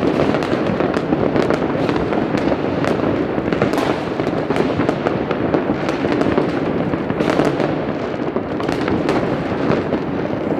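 Many fireworks going off across a city at once: overlapping bangs and crackles that never let up.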